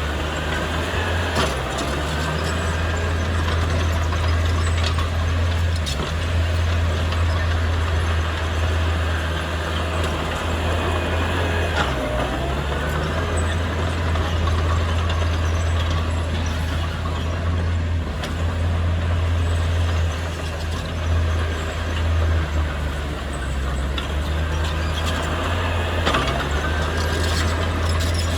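Diesel engine of heavy earthmoving equipment running steadily under load, its low hum dipping and swelling, with a few sharp knocks along the way.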